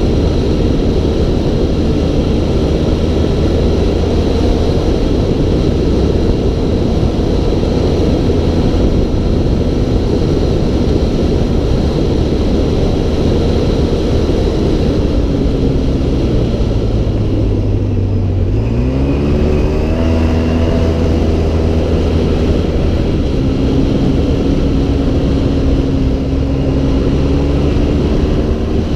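Engine of an off-road vehicle driven over sand dunes, running under steady load; about two-thirds of the way through its pitch sinks, then rises quickly again as it revs back up and holds steady.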